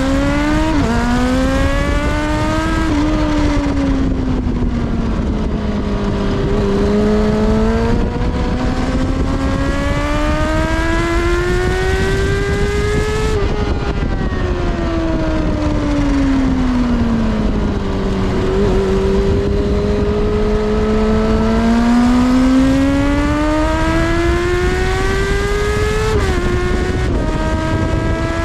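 Kawasaki ZXR400's inline-four engine at high revs, pitch climbing and falling several times as it accelerates and slows, with brief sudden dips at gear changes.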